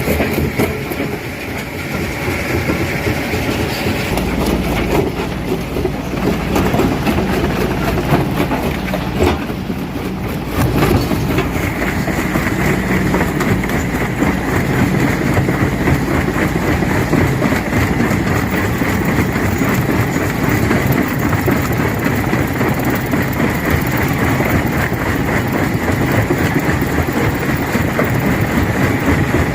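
Rock crusher breaking stones: a continuous heavy mechanical rumble of the running machine, dense with rapid cracks and crunches as the rock breaks.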